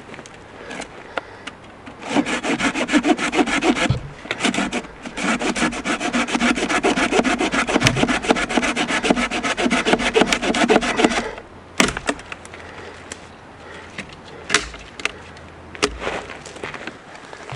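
Rapid, evenly repeated scraping strokes, in a short spell of about two seconds and then, after a brief pause, a longer run of about six seconds. After it come a few scattered sharp clicks.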